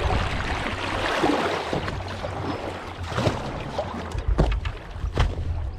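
Kayak paddle dipping and splashing in river water, with a few sharper strokes in the second half, over a low rumble of wind on the microphone.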